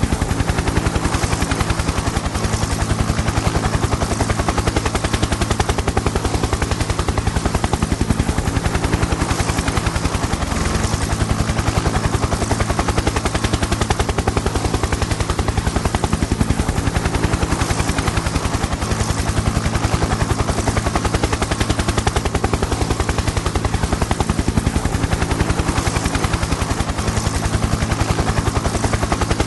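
Helicopter in flight: the rotor blades chop in rapid, evenly spaced pulses over a steady engine hum.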